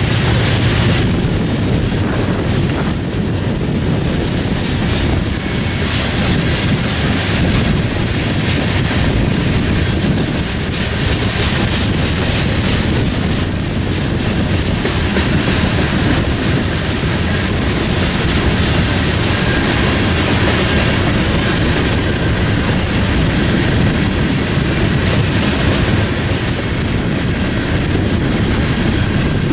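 A BNSF freight train rolling past close by. It makes a loud, steady rumble and rattle of wheels on the rails that holds level throughout.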